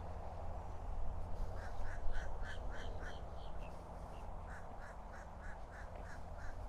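A duck quacking in two quick runs of about six quacks each, over a steady low rumble.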